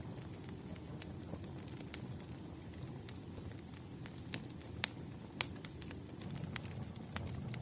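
Burning firewood crackling: a steady low rumble of flames with sharp, irregular pops and snaps, the loudest two a little before and a little after five seconds in.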